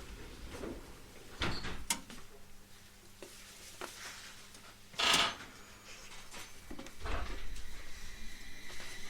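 Inside a 701-series electric train car, quiet and likely standing or moving slowly: scattered knocks and clunks, with a short, louder hiss about five seconds in and low rumbling knocks near the end.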